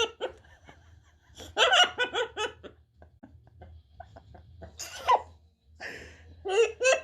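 Laughter in short rhythmic pulses, a burst about a second and a half in and another starting near the end, with a few small clicks and one short call between them.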